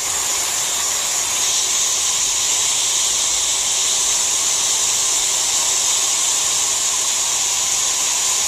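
Leister Triac handheld hot-air plastic welder running, its blower pushing out a steady, loud hiss of hot air.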